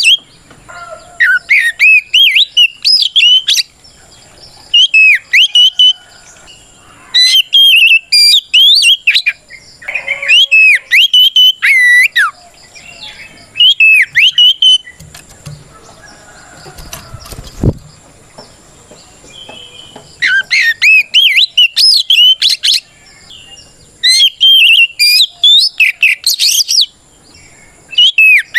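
Oriental magpie-robin (kacer) singing its full, loud fighting song: bursts of rapid, sweeping whistled phrases broken by short pauses. It is the challenging song a male uses to call out a rival. A single dull knock falls in a pause about midway.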